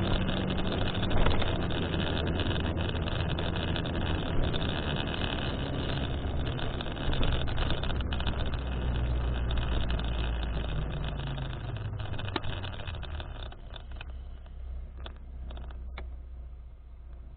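Steady vehicle running noise with a low rumble, captured through a device's microphone that the title says picks up an abnormal noise. The hissy upper part of the noise dies away about fourteen seconds in, leaving the rumble and a few clicks.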